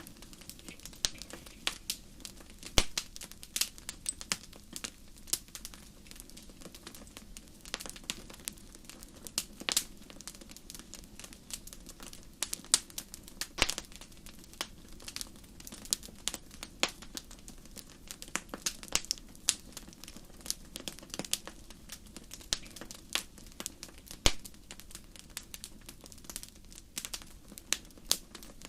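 Wood fire crackling in a fireplace: irregular sharp pops and snaps, a few louder than the rest, over a soft steady low rush of the flames.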